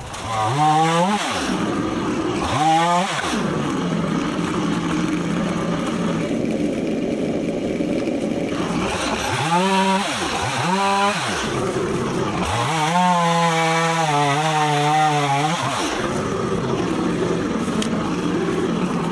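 Stihl MS 170 two-stroke chainsaw idling between short throttle blips. In the second half it is held at high revs for about three seconds while cutting through fallen limbs, then drops back to idle.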